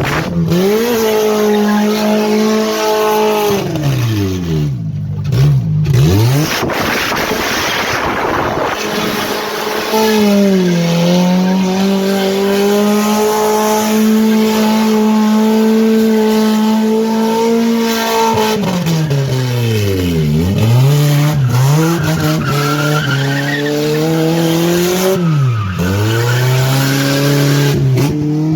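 Drift car engine held high at full revs through a slide, with the revs dropping sharply and climbing back several times, and tyres squealing.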